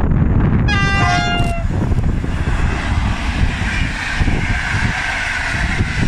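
A locomotive horn sounds once, briefly, about a second in, its pitch falling slightly. Then comes the steady rumble and hissing rail noise of a train running through the station.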